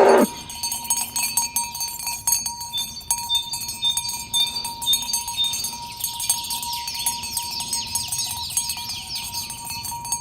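Cowbells on walking cattle clanking and ringing irregularly, with the tail of a cow's moo at the very start.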